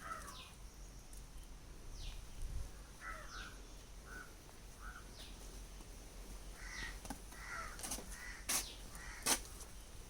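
Birds calling: short harsh caw-like calls several times, over a high falling whistle that repeats about once a second. A few sharp clicks or knocks come near the end.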